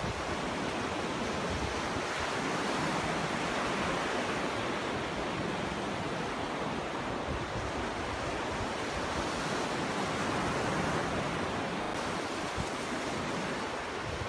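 Ocean waves washing onto a beach, a continuous surf hiss that swells gently and ebbs, with some low wind rumble on the microphone.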